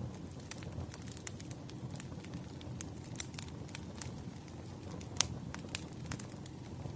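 Crackling wood fire: a steady low hiss with irregular sharp pops and crackles, one louder pop about five seconds in.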